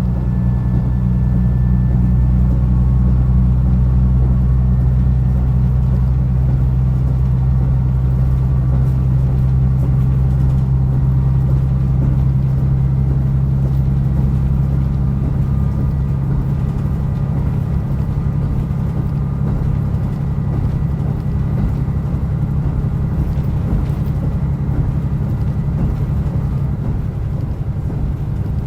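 Diesel railcar on the move, heard from inside: a steady low engine drone with running noise. The drone weakens about halfway through while the running noise carries on.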